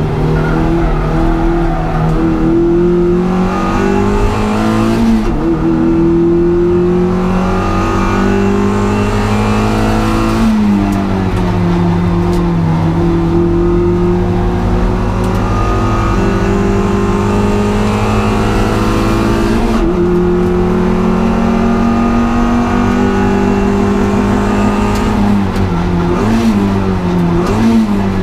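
Honda Integra DC2 race car's four-cylinder engine running hard under load, its pitch climbing slowly and falling back a few times at gear changes, with quick rev blips on the downshifts near the end.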